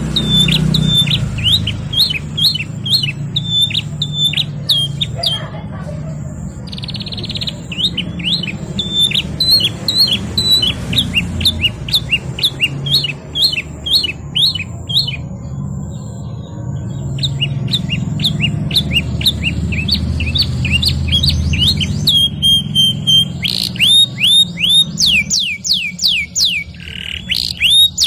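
Domestic canary singing: phrase after phrase of quick, repeated short falling whistles and rolling trills, with a few brief pauses. Near the end the runs get faster. A steady low hum runs underneath.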